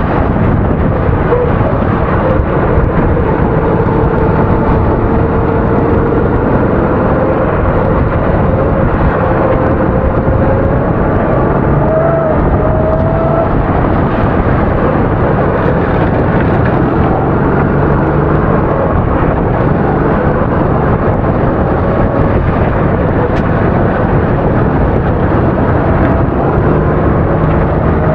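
270 cc four-stroke kart engine running continuously under racing throttle, its pitch slowly rising and falling with the revs.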